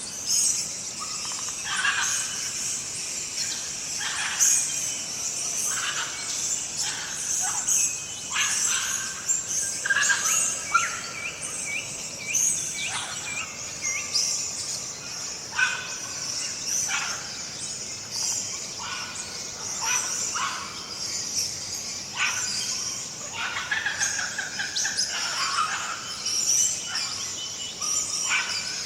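A nature ambience of many birds calling and chirping, short whistles and chirps coming one after another over a steady high-pitched background chorus.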